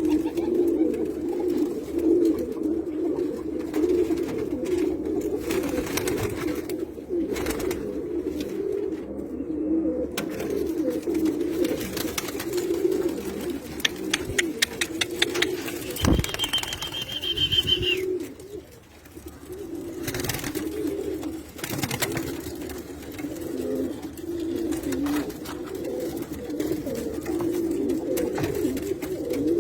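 A loft of Pakistani pigeons cooing continuously, many birds overlapping. About halfway through, a short high tone sounds for about two seconds.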